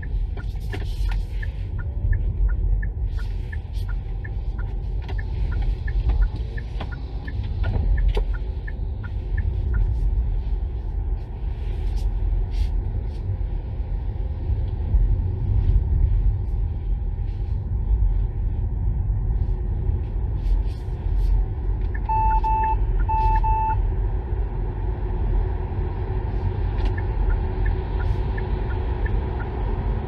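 Cabin noise of a Kia Niro EV driving at low city speed: a steady low road and tyre rumble. A run of light, regular ticks through the first ten seconds, and two short electronic beeps a little past two-thirds of the way through.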